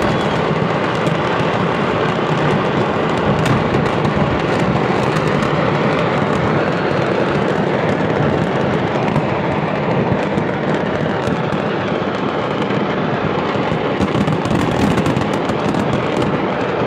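Fireworks stock going off in a fireworks-factory accident: a dense, continuous crackle of many small bangs and pops with no single big blast.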